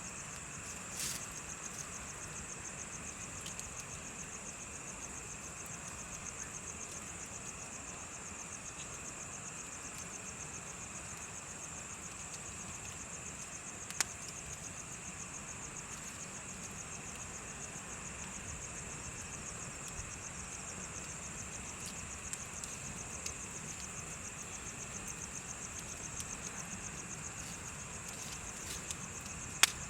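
Insects chirping in a steady, rapid high-pitched trill, with a lower steady chirring beneath it, over the soft hiss of a bonfire. A few sharp pops from the fire break through: one about a second in, a louder one midway, and the loudest near the end.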